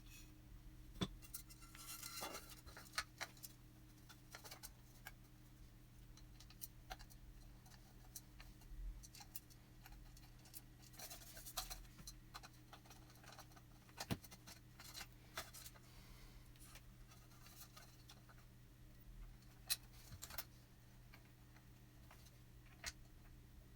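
Small parts being handled on a workbench: scattered light clicks and a few short scratches over a faint steady hum.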